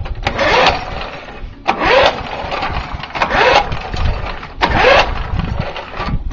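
A long-unused lawn mower's small engine being pull-started at full throttle: four rope pulls about a second and a half apart, each a short whirring crank of the engine, and it does not catch.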